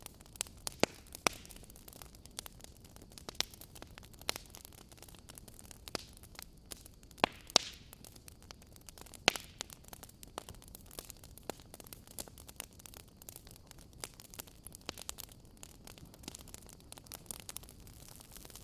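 Wood fire in a fireplace crackling, with irregular sharp pops and snaps over a low steady hiss; a few louder pops about a second in and again around seven to nine seconds in.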